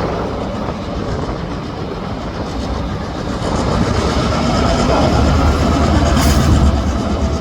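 Diesel freight locomotive working hard as the train starts to pull away, its low engine rumble building louder about halfway through, with the rattle of rolling freight cars and a brief hiss near the end.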